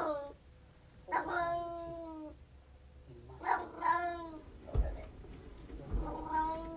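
A cat meowing: three long, drawn-out meows, each falling in pitch, with a couple of low bumps between the second and third.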